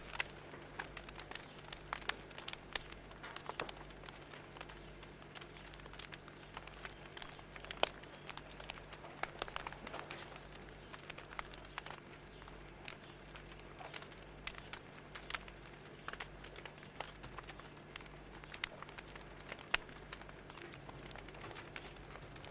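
Wood fire crackling, with irregular sharp pops and snaps over a faint steady low hum.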